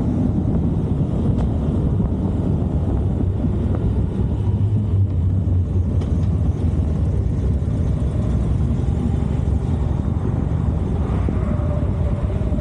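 Harley-Davidson Electra Glide on the move, its V-twin engine and the passing air making a steady, loud low rumble.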